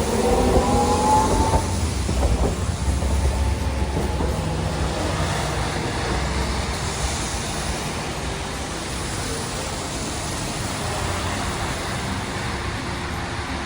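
Hiroshima streetcar running on its rails, with an electric motor whine rising in pitch over the first couple of seconds, then a steady low rumble that slowly grows quieter.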